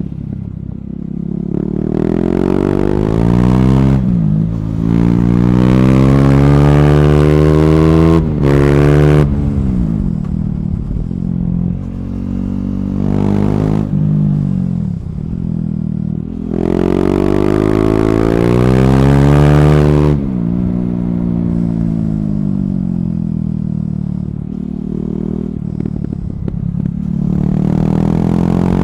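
KTM Duke 390's single-cylinder engine through an Akrapovic slip-on exhaust with the catalytic converter removed, accelerating hard with revs climbing and quick upshifts. The revs then drop away, and it pulls hard again about halfway through before the throttle closes and the revs fall off.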